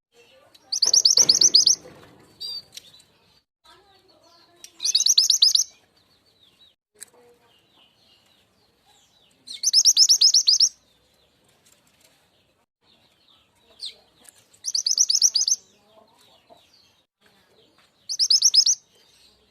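Mantenan gunung (truntung weru) lure call: five short, rapid, high rattling trills of about a second each, repeating every four to five seconds, with faint chirps between them.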